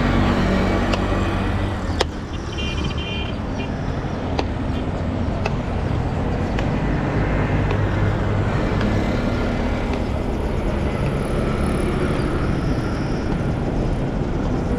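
Street traffic: a steady wash of passing cars and their engines, with a single sharp knock about two seconds in.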